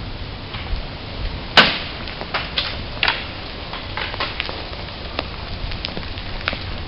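Acorns dropping from tall oak trees and hitting the ground, a scatter of irregular sharp clicks and taps, with one much louder hit about a second and a half in.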